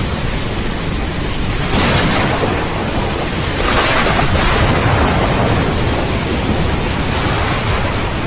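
Rain falling steadily with rolling thunder rumbling underneath; the thunder swells twice, about two seconds in and again around four seconds.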